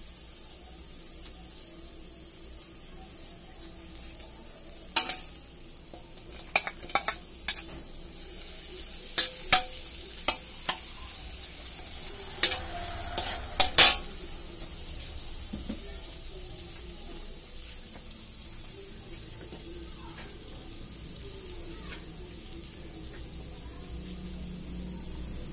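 Butter sizzling in an aluminium wok, with chopped onion and garlic frying in it by the middle. Between about 5 and 14 seconds in comes a run of loud, sharp clacks of the metal turner against the wok, then steady sizzling with light stirring.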